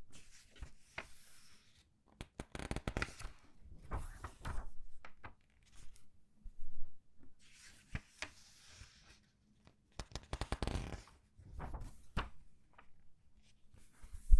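Comic book pages being turned and squeezed by hand: paper rustling and crinkling in irregular bursts, with sharp crackles and short pauses between page turns.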